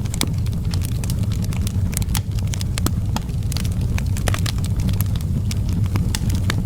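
Outdoor wood fire burning, with a steady low rumble and frequent sharp, irregular crackles and pops from the burning wood.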